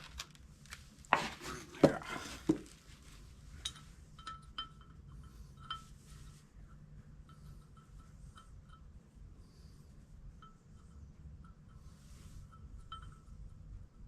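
Metal clanking: a few heavy knocks about a second in as the heavy engine and torque converter assembly is flipped over, then scattered light, ringing metallic clinks of bolts and tools against the parts.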